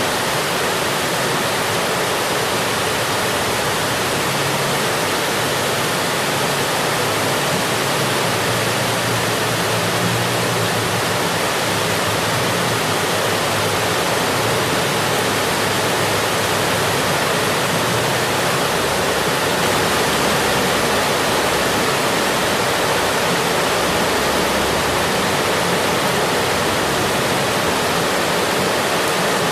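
Steady rain falling as an even, unbroken hiss, with a soft low rumble coming and going.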